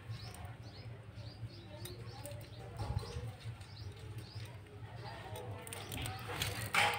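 Faint bird calls, typical of pigeons cooing and small birds chirping, over a steady low hum, with small clicks of light handling and a louder rustle near the end.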